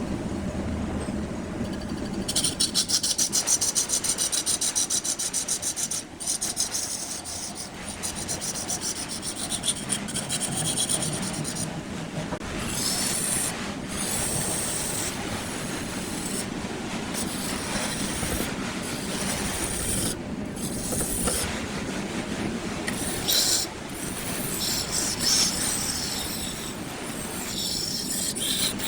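Turning tool cutting a spinning wood block on a lathe: a steady scraping hiss that comes and goes as the tool meets the wood. About two seconds in, a rapid, even pulsing starts and lasts a few seconds.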